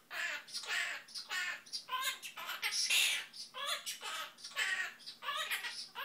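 Quaker parrot (monk parakeet) chattering a run of short, speech-like mimicked syllables, about two a second, with a louder, harsher squawk about three seconds in.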